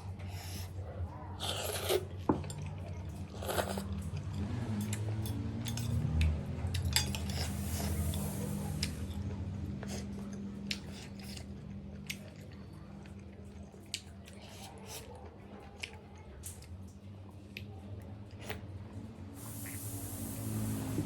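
A person eating pork thukpa noodle soup close to the mic: several long slurps with chewing between them, and many small clicks of utensils against the bowl, over a steady low hum.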